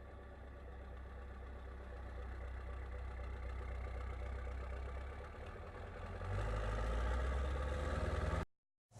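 Scania R500's V8 diesel engine running, growing steadily louder, then louder again from about six seconds in as the truck pulls away. The sound cuts off abruptly just before the end.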